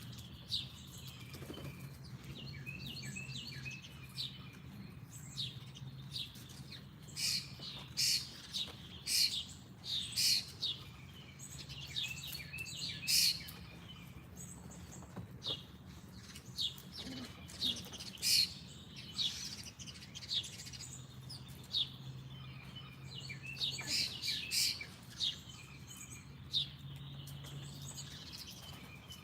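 Small songbirds chirping: many short, sharp chirps, several a second at times, over a faint steady low hum.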